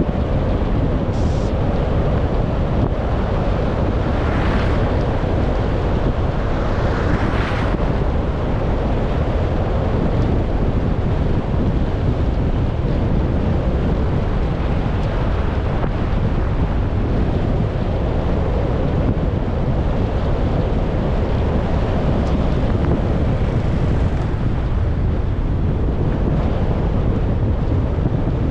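Steady road and wind noise of a car driving, with wind buffeting the microphone; two brief rushing swells rise out of it about four and seven seconds in.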